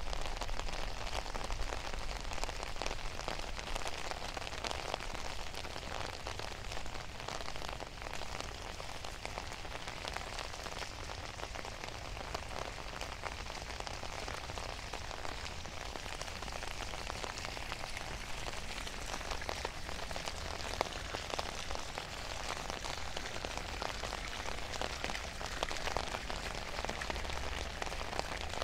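Steady rain falling, a dense patter of many individual drops ticking close by.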